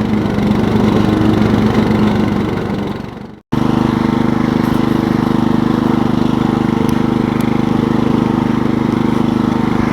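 Riding lawn mower engine running steadily under load while mowing a field. It fades away and cuts back in abruptly about three and a half seconds in.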